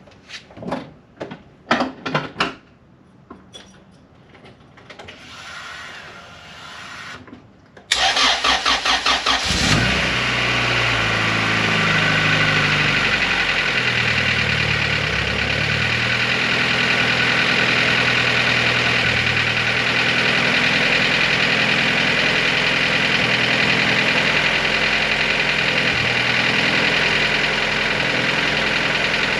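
A few clicks and knocks, then the turbocharged Honda G23 four-cylinder engine cranks about eight seconds in and catches within two seconds. Its speed falls over the next few seconds, and it settles into a steady idle. This is its first start on fresh conrod bearings and primed oil, and it runs without the ticking the owner had been chasing.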